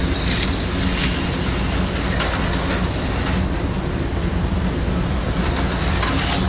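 HO scale slot cars and a model train running around the layout: a steady mechanical rumble with brief rushes of higher hiss near the start and near the end.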